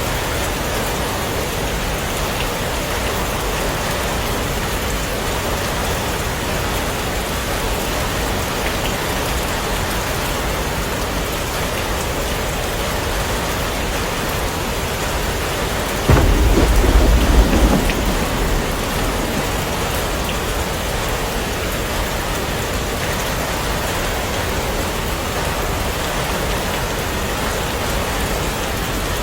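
Heavy rain falling steadily, with a sudden clap of thunder a little past halfway that rumbles low for two or three seconds and fades.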